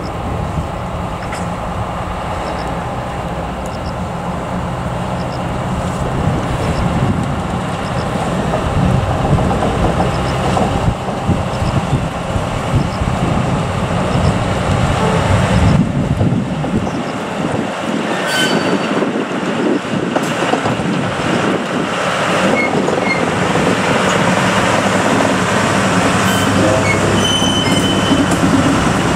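Rail vehicles moving slowly through a rail yard, with a steady engine drone for the first half. In the second half, a shunting locomotive slowly hauls 115 series electric cars past, and the wheels give several short, high squeals.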